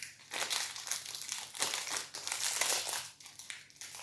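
Plastic wrapper of a protein bar crinkling as it is handled and opened, strongest in the first three seconds.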